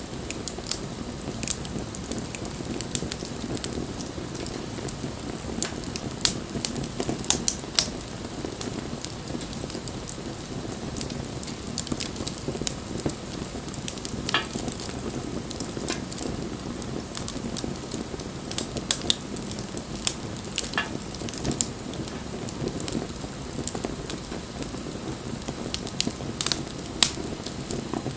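Wood bonfire burning: a steady low rush of flame with sharp, irregular crackles and pops.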